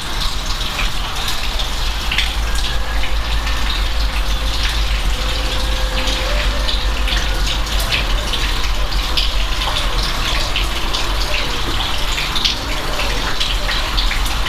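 Steady rain falling, a continuous hiss broken by many close, sharp drop hits, with a low rumble underneath.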